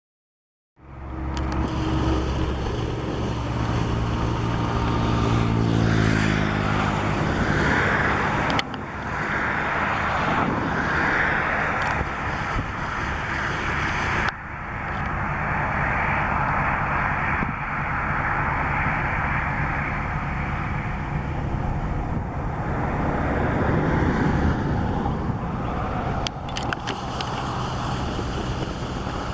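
Firefighting helicopter flying, its rotor and engine noise loud and steady, with a pitch that falls over the first few seconds as it passes. The sound changes abruptly twice, at edits.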